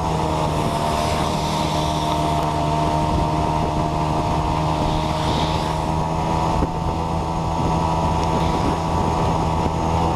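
Motor scooter engine running at a steady speed while riding, with wind rushing over the microphone.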